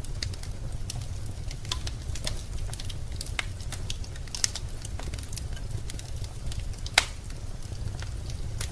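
Fire crackling in a fireplace: scattered sharp pops and snaps over a low steady rumble, with one louder pop about seven seconds in.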